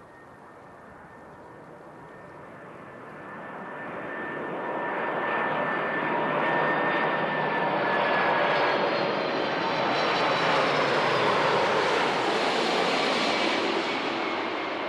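Boeing 747-400 jet engines growing much louder as the airliner comes close and passes, a steady engine whine over a broad jet roar. The whine drops slightly in pitch as it goes by, and the noise eases a little near the end.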